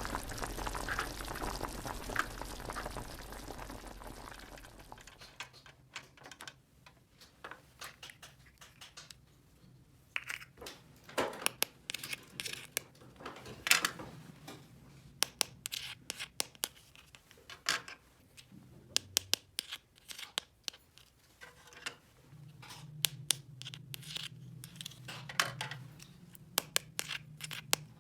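Hands handling small plastic toy pieces and packaging: scattered clicks, taps and crinkling. A steady hiss fades out over the first few seconds, and a low hum comes in near the end.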